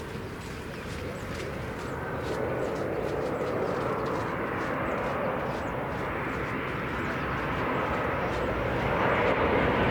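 Jet airliner approaching to land, its engine noise growing steadily louder with a faint high whine in it.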